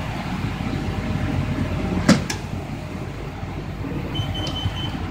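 Old carbureted V8-era car engine idling steadily, with the driver's door latch clicking open about two seconds in. Short high electronic beeps sound near the end.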